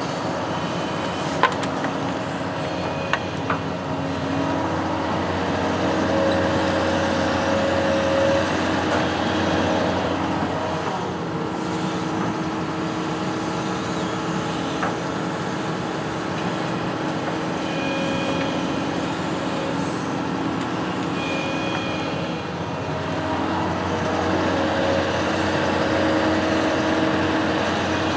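Construction machine's engine running steadily, its note and level swelling a little now and then as it works. A couple of sharp clicks sound in the first few seconds.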